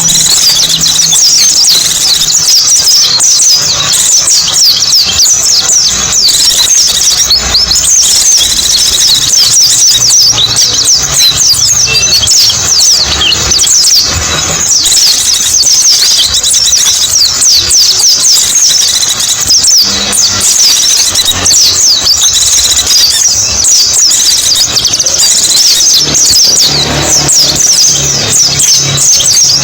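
Pleci (white-eye, Zosterops) singing a loud, fast, unbroken high-pitched twittering song made of rapid downward-sweeping notes.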